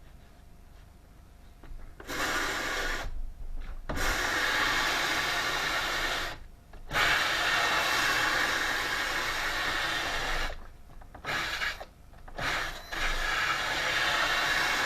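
A power tool working wood, running in several bursts of a few seconds each that start and stop sharply, with short quiet gaps between.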